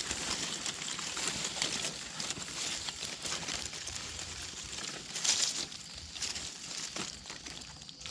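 Rustling and crackling of dry leaf litter and undergrowth, irregular, with small snaps and a louder rustle about five seconds in.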